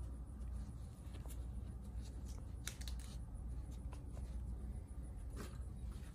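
Faint scattered clicks and light taps from small starter-motor parts being handled, over a low steady hum.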